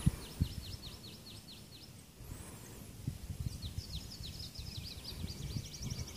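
A songbird singing twice, each phrase a quick string of repeated high down-slurred notes, about five a second. Under it runs a low buffeting rumble on the microphone.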